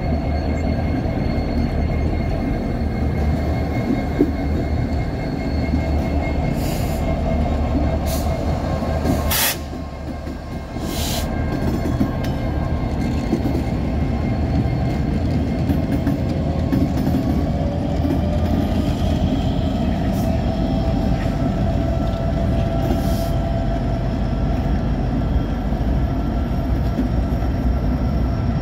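CN freight train passing at close range: two SD70M-2 diesel-electric locomotives and a GP38-2 running by, then a covered hopper car rolling past near the end. A thin, high, steady ringing of wheel squeal sits over the engine and wheel noise, and there is one sharp clank about nine seconds in.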